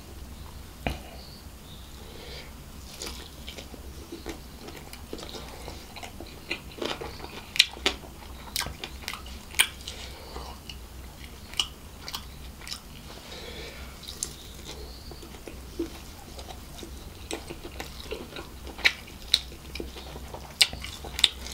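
Close-miked mouth sounds of a person eating barbecue chicken by hand: chewing, with many scattered sharp, wet clicks and smacks, over a faint steady low hum.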